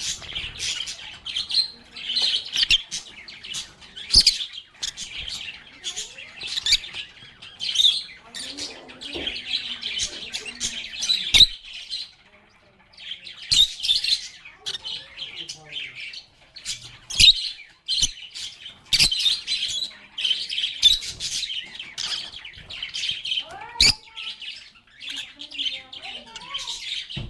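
Several lovebirds (Agapornis) chattering with rapid high chirps and squawks, with sharp clicks mixed in; the chatter drops out briefly about twelve seconds in, then resumes.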